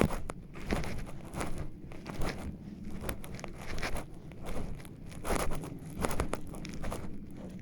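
Footsteps of a person walking at a steady pace, each step crunching on the forest floor.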